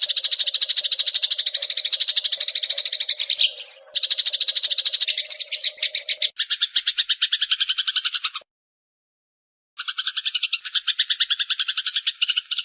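Eurasian tree sparrows chattering in fast, unbroken trains of sharp chirps, about ten a second: the agitated calls of sparrows fighting. The sound cuts out completely for about a second past the middle, then starts again.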